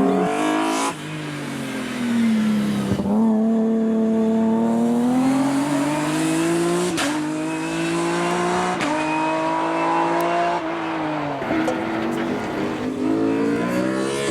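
Race car engine driven hard, its pitch climbing and dropping as it accelerates, lifts and changes gear several times. There is a sharp crack at a gear change about three seconds in and another near seven seconds.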